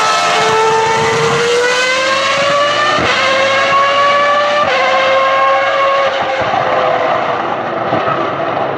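Ferrari racing car engine accelerating hard, its note climbing steadily, with quick upshifts about three and four and a half seconds in. After the second shift the note levels off and grows fainter as the car draws away.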